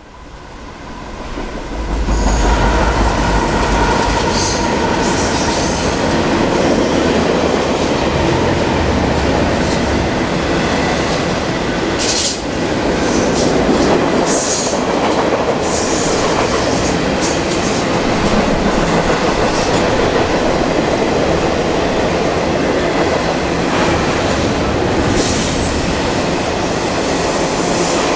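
Freight train passing close by, rising to full loudness in the first two seconds, then a steady loud rumble of steel wheels on rail with scattered clicks and clatter.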